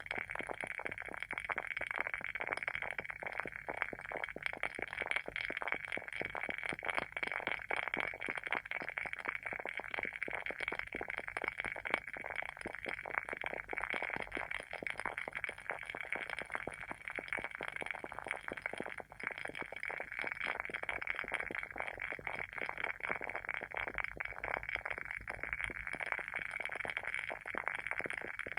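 Wooden wick of a WoodWick candle burning with a continuous, rapid crackle of fine clicks and pops, like a small fire.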